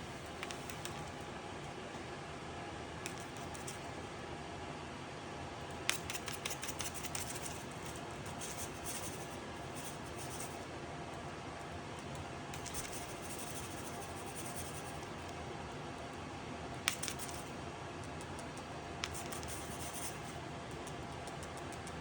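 Scattered light clicks and short runs of rapid scratchy, rattling ticks over a steady background hiss, with the sharpest clicks about six seconds in and again near seventeen seconds.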